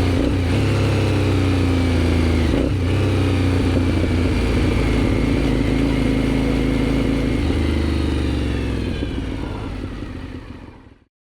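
Aprilia Shiver 750's V-twin running through a GPR aftermarket exhaust under way, with two brief breaks in the note near the start and about two and a half seconds in, and its pitch easing slowly down. The sound fades out over the last three seconds.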